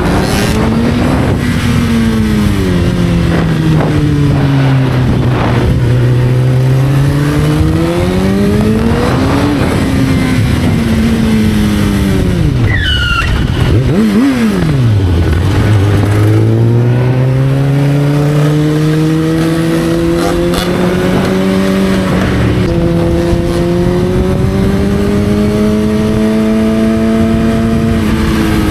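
Motorcycle engine running while riding, its pitch rising and falling slowly with the throttle. About halfway through it drops to idle and gives one quick throttle blip, then pulls away with revs climbing gradually.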